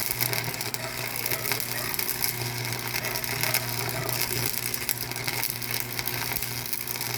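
Machinery running with a steady low hum and a dense, continuous mechanical clatter of small clicks, the hum dropping out briefly about halfway through.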